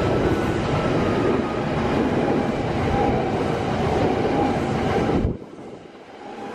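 Kintetsu electric commuter train passing close by, its wheels and motors running with a steady rumble and some clickety-clack over the rails. The sound drops off suddenly about five seconds in, then slowly builds again.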